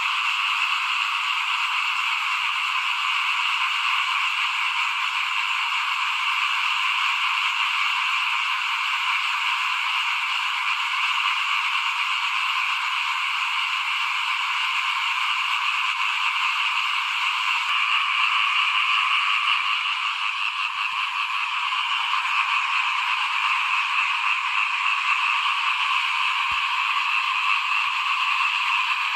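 A dense, steady chorus of many small frogs calling all at once, an unbroken wall of overlapping calls with no pauses.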